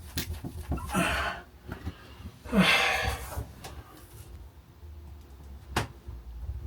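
A person breathing out heavily twice, the second breath longer and louder, then a single sharp click near the end.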